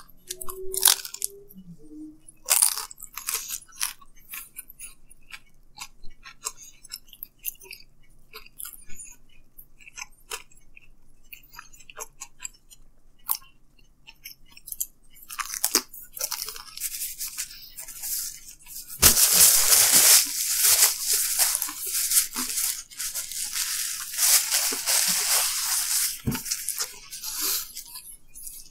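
Close-miked chewing of thin-crust pepperoni pizza: soft crunches and wet mouth clicks. From about two-thirds of the way through, a loud rustling and rubbing of a paper napkin fumbled near the microphone takes over for several seconds.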